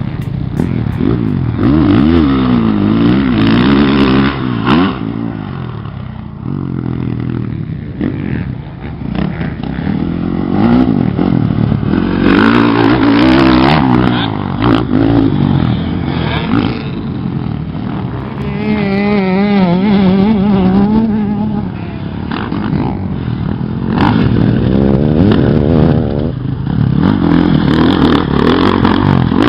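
Motocross dirt bike engine revving up and falling back again and again as the rider accelerates, shifts and rolls off, with scattered sharp clattering knocks.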